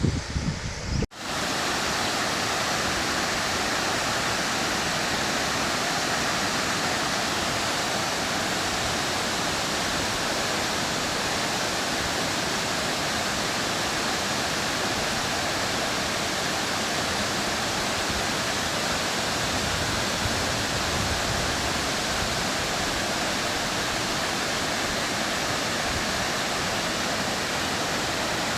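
Rain-swollen small waterfall: water pouring over it in a steady, even rush. The first second holds a few low knocks before an abrupt cut into the water sound.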